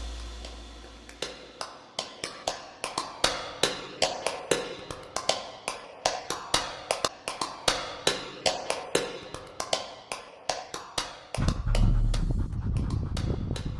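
A dog lapping water, a steady train of wet laps at about four a second, as a music track fades out. Near the end the lapping stops and a louder low rumbling noise comes in.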